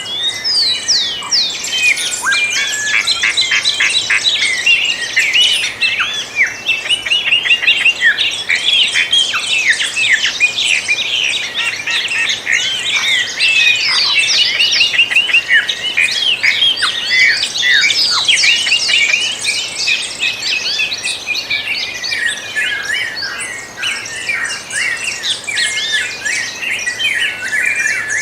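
A dawn chorus of many birds singing at once: dense, overlapping chirps, whistles and trills, with no single voice standing out.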